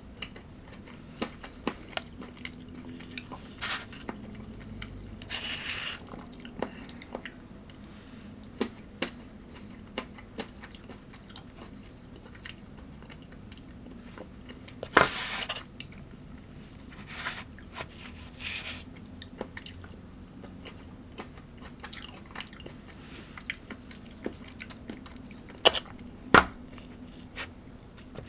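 A person chewing and biting food, with many sharp clicks and several louder crunchy bites, the loudest a little past the middle and near the end.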